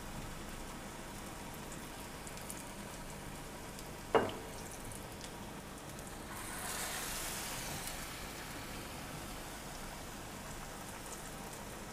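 Batter-dipped potato cutlets shallow-frying in oil over a medium-to-low flame, a steady sizzle. A single short knock about four seconds in, and the sizzle swells for a couple of seconds as another cutlet goes into the oil.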